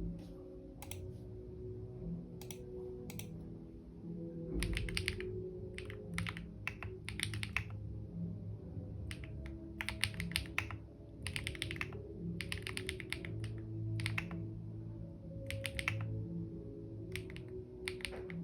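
Typing on a computer keyboard: quick runs of keystrokes lasting about a second, broken by short pauses, over soft background music.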